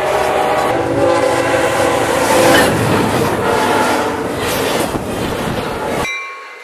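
Passenger train cars passing at close range, the wheels clattering and rumbling over the rails, with a train horn sounding in the first few seconds. Near the end the rumble cuts off abruptly.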